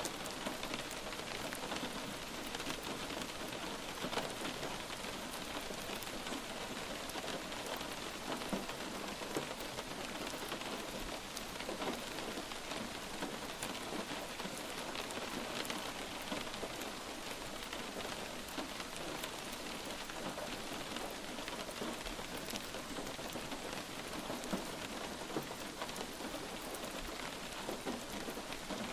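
Light rain falling steadily on a surface: an even hiss with individual drops ticking through it.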